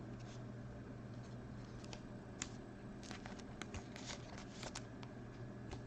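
Faint handling of trading cards: a scatter of light clicks and rustles as the cards are moved, over a low steady hum.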